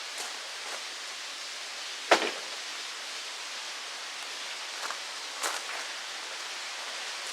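Steady rushing outdoor noise with scattered light knocks and clicks; the loudest, a single sharp knock, comes about two seconds in.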